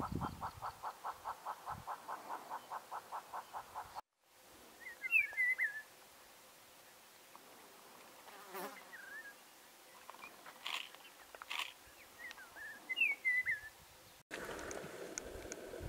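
A hornbill calling a steady series of hollow clucks, about five a second, which cuts off about 4 s in. Then a Herero Chat sings two short, high warbled phrases, about 1 s and 9 s after the cut. Near the end comes steady wind-like noise.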